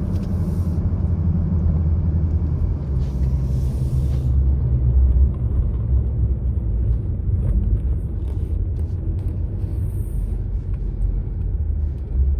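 Steady low rumble of road and engine noise inside a moving car's cabin, with a few faint ticks and short patches of hiss.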